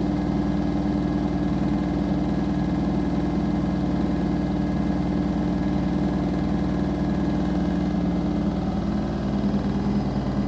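Washing machine motor running with a steady hum, turning the drum; the tone shifts about nine seconds in.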